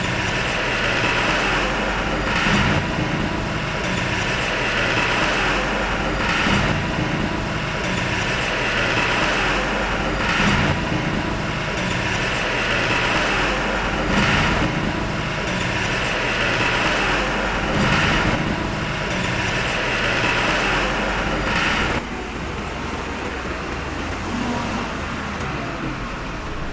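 Heavy earthmoving machinery running under load, a steady engine noise with a brief surge about every four seconds. The sound drops and changes abruptly near the end.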